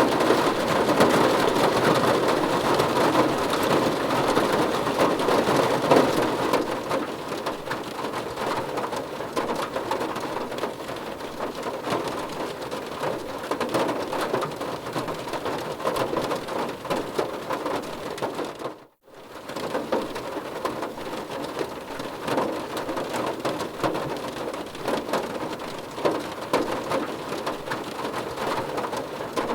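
Rain falling on a car's roof and windows, heard from inside the car: a steady, dense patter of drops, a little heavier for the first few seconds. It cuts out for an instant about two-thirds of the way through, then carries on.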